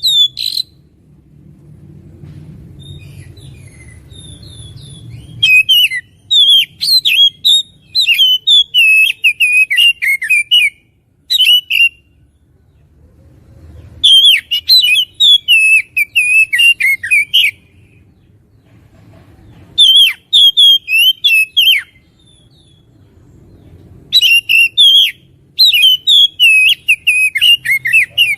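Oriental magpie-robin (kacer) singing loudly: bursts of fast, varied whistles and chirps that sweep up and down, in phrases of one to four seconds with short pauses between them.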